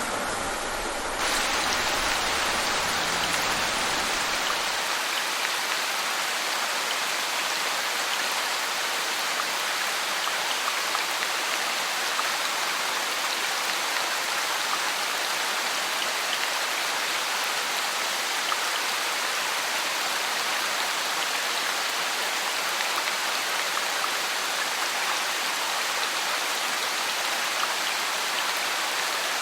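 Steady rain falling, a dense even hiss with fine scattered drop ticks. About a second in it turns slightly louder and brighter, and the low rumble underneath fades away over the next few seconds.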